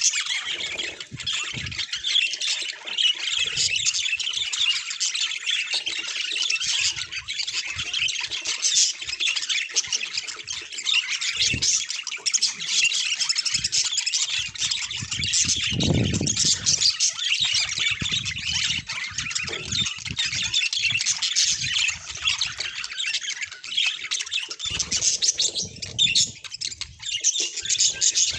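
Budgerigars chattering without a break, dense warbling broken by frequent squawks and chirps.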